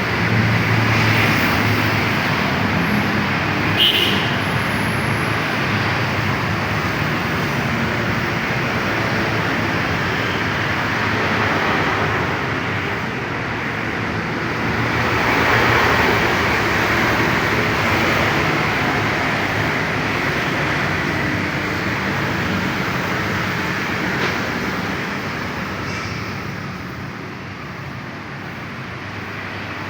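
Kawasaki two-stroke trail motorcycle engine running steadily, getting louder around the middle and easing off near the end.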